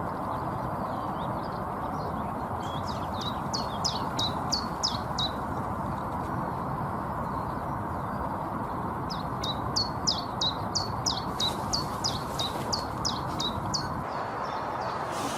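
A small bird singing two songs of rapid, high, falling notes, about five a second, over a steady hum of background noise.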